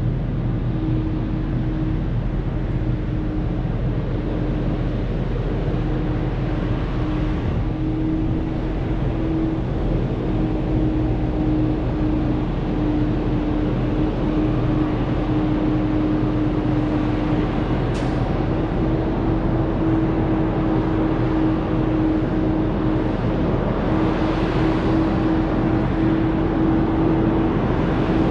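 Semi truck engine and road noise heard from inside the cab while driving: a steady drone holding one pitch, with a single sharp click about two-thirds of the way through.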